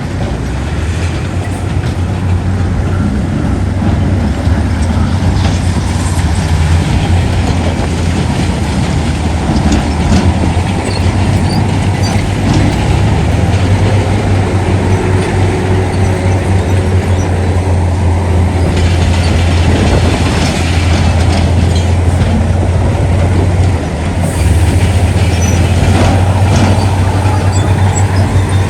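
Heavy diesel earthmoving machinery running at a construction site: a loud, steady low engine rumble with scattered clanks and knocks. It dips briefly about 24 seconds in, then comes back louder.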